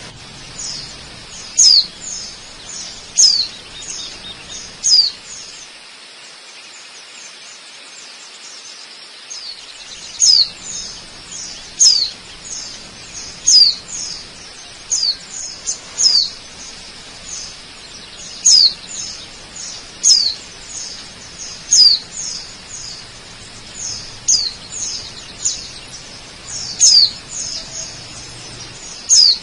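A bird calling over and over with short, high chirps that sweep downward, in ones, twos or threes every second or two, with a pause of several seconds near the start. Under the calls runs the steady rush of a waterfall.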